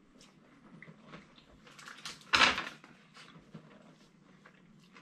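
Close-up mouth sounds of a person eating a cheesesteak egg roll: faint chewing and small wet clicks, with one loud, brief, noisy burst about halfway through.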